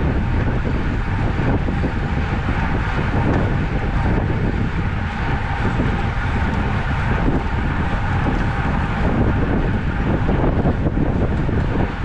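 Wind buffeting the microphone on a moving road bicycle: a steady, loud rushing noise, heaviest in the low end.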